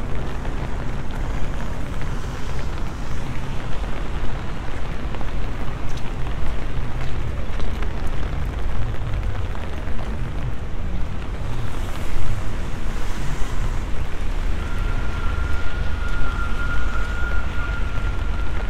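Rainy city street ambience: an even hiss of rain and wet pavement over a heavy low rumble. A thin steady high tone comes in about fifteen seconds in and holds to the end.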